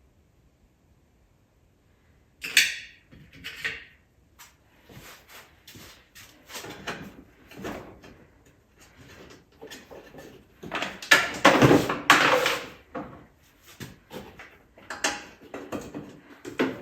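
Irregular clunks, clatter and rattles of parts and tools being handled during ATV reassembly, starting about two seconds in, with the loudest run of clatter about two thirds of the way through.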